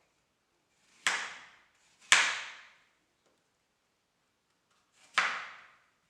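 Three sharp knocks, the first two a second apart and the third about three seconds later, each fading away over about half a second; the second is the loudest.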